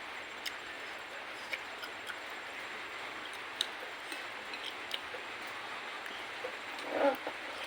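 Scattered light clinks of a spoon against a soup bowl during eating, over a steady hiss, with a louder brief sound about seven seconds in.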